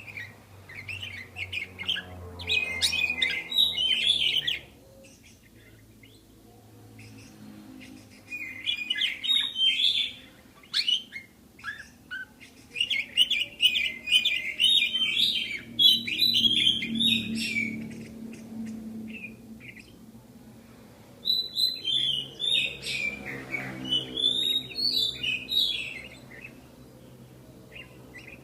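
Pet budgerigars chirping and warbling in quick, chattering bouts of a few seconds each, with short quieter lulls between them.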